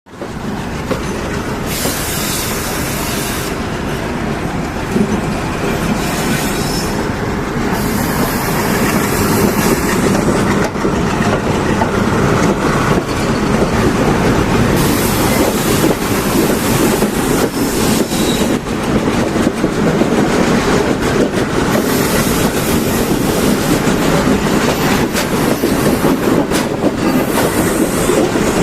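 Train running along the rails: a steady, loud rumble with wheels clattering over the track, and stretches of high hiss that come and go.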